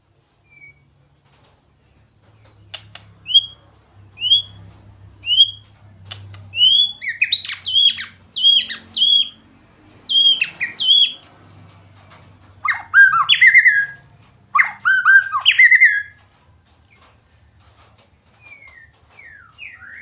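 White-rumped shama singing: about a second in it begins a run of clear upward-swept whistles, roughly one a second, then breaks into loud, varied, fast phrases of rich whistled notes, with a few high thin notes and softer falling slurs near the end.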